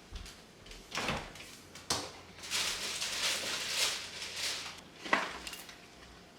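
Someone handling a container, likely the crickets' box while feeding them: a few sharp clicks and knocks, with about two seconds of rustling in the middle.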